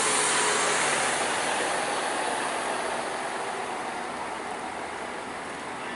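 Heavy truck running past, its engine and tyre noise fading steadily as it moves away.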